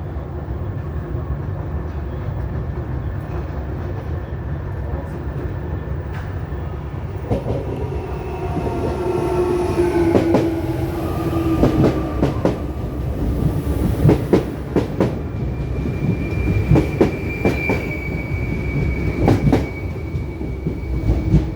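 Electric commuter train going by with a steady low rumble. From about a third of the way in, the wheels clack over rail joints and a motor whine falls slightly in pitch. In the last quarter a steady high-pitched wheel squeal sets in.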